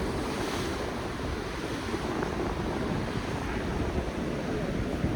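Ocean water sloshing and splashing against the pillars of a structure in the sea, a steady wash of water, with wind buffeting the microphone.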